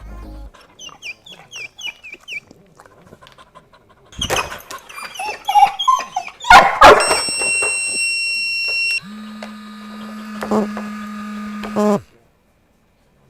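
A dog whining with short falling cries, then barking loudly. A steady high electronic beep follows for about two seconds, then a lower steady buzz for about three seconds that cuts off abruptly.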